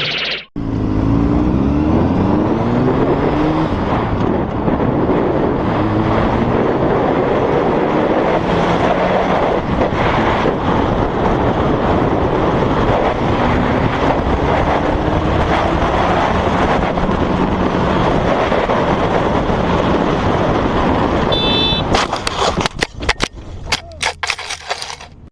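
Car engine running and revving, its pitch rising and falling, under loud road and wind noise. In the last few seconds a rapid series of sharp knocks and cracks cuts through as the engine noise drops away.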